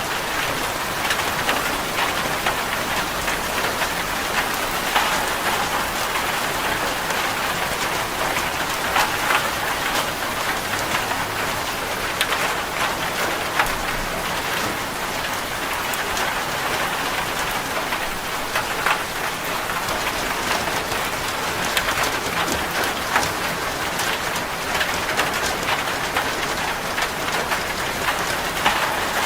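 Steady rain falling on a corrugated zinc roof, a constant patter dotted with many separate drop ticks.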